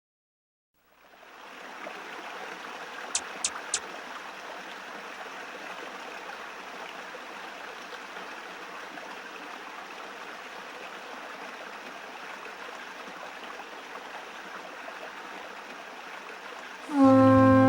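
Running stream water, a steady rushing that fades in after a moment of silence. Three quick sharp clicks come close together about three seconds in. Music with held tones starts near the end.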